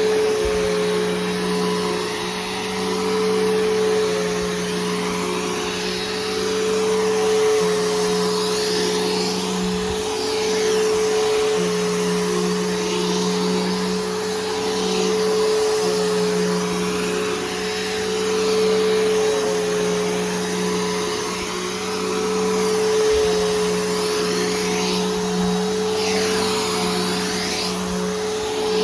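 Bissell Powerforce Helix Turbo upright vacuum running steadily, with its motor hum and airflow rising and falling about every four seconds as it is pushed back and forth. It has a new brushroll and belt fitted.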